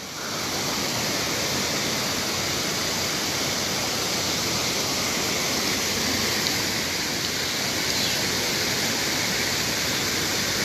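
Waterfall rushing: a steady, even roar of falling water that comes up within the first half second.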